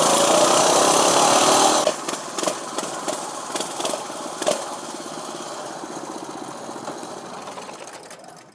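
Small minibike engine running, loud for about the first two seconds, then quieter and fading away near the end.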